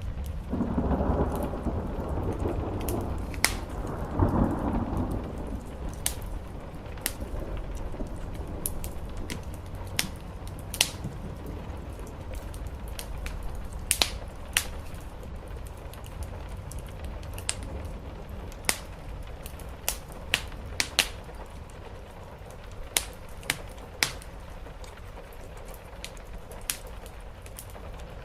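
Steady rain on a roof with a low rumble of thunder swelling in the first few seconds, while a wood fire crackles with sharp, scattered pops.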